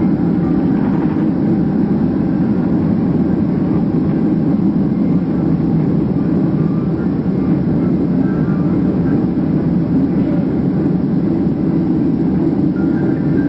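Boeing 767 jet engines running at low power, heard inside the passenger cabin as a steady rumble while the airliner taxis toward the runway.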